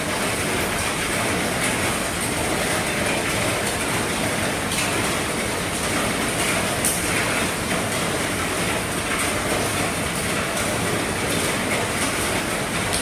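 Heavy rain falling steadily on an RV roof: a dense, even patter with scattered louder drops.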